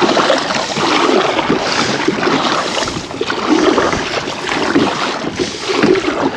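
Kayak paddle strokes through choppy water in a headwind, a regular swish and splash about once a second, with wind buffeting the microphone.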